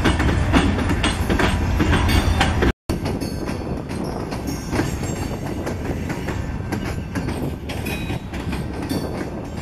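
Covered hopper cars of a freight train rolling past close by: a steady rumble with the wheels clicking irregularly over rail joints. The sound cuts out for a moment about three seconds in and comes back a little quieter.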